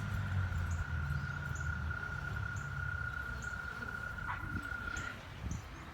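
Honeybee swarm humming, with a steady high tone running alongside that stops about five seconds in, and faint short high chirps about once a second.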